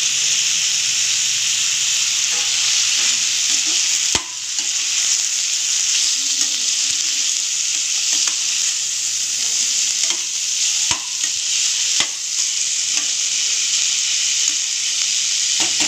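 Chopped onion, tomato, garlic and cashews sizzling in hot oil in a kadai. They are stirred with a perforated steel spoon, which gives a few sharp knocks against the pan.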